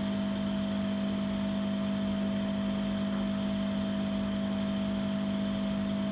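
A steady background hum over a faint even hiss, unchanging throughout, with no distinct handling sounds.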